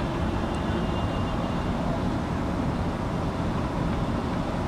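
Steady low rumble of distant city traffic, with no single vehicle standing out.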